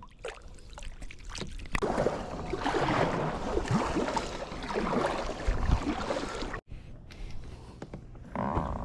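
Water splashing and sloshing around a kayak, with scattered knocks and clatter against the hull, loudest in the middle stretch and cutting off abruptly about two-thirds of the way through.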